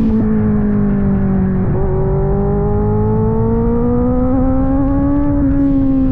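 Kawasaki Z900 inline-four running through an aftermarket AR exhaust while riding. Its note sags and breaks briefly about two seconds in, then climbs steadily as the bike pulls and eases off again near the end.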